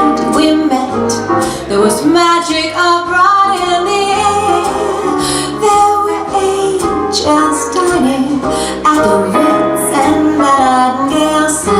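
Live band playing a slow jazz standard on keyboard, bass and drums, with a woman singing over it.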